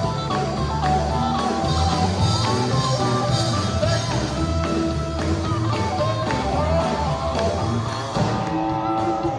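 A sacred steel gospel band playing live, with the electric steel guitar sliding up and down between notes over steady bass.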